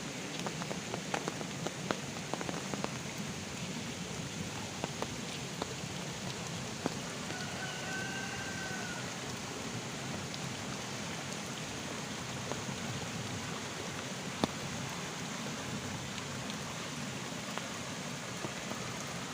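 Heavy rain falling steadily, with scattered sharper drops striking close by. A brief faint call rises and falls about eight seconds in.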